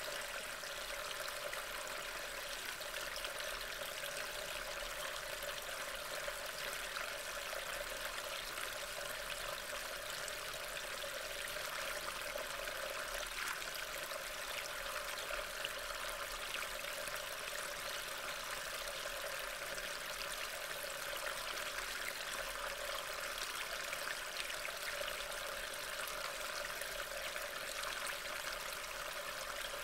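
Steady rain, an even hiss heard through a trail camera's microphone.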